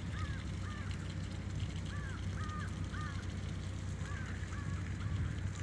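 A bird calling over and over in short groups of two or three harsh notes, with a low steady rumble underneath.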